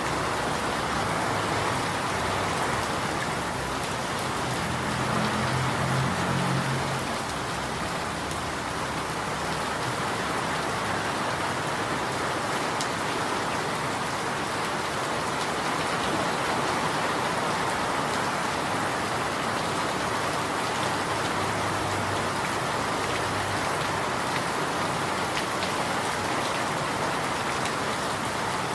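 Steady rain falling, an even dense patter, with a brief low hum about five seconds in.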